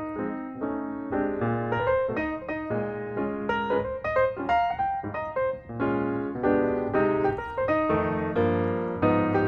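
Background piano music: a melody of separate notes over lower held notes, at a steady moderate level.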